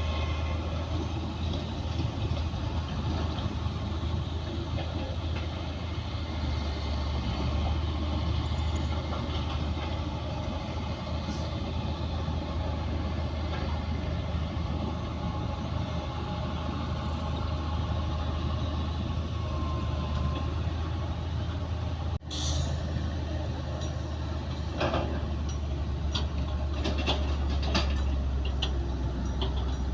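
Crawler bulldozer's diesel engine running with a steady low drone, and a run of metal clanks from its tracks in the last few seconds. The sound breaks off for an instant about 22 seconds in.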